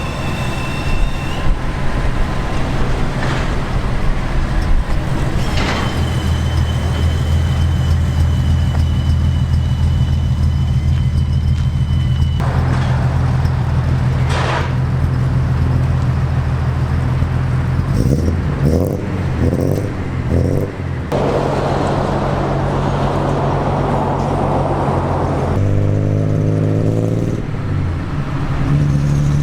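A car engine runs steadily while driving with a low, even drone. Near the end the engine note steps down and falls as the car slows.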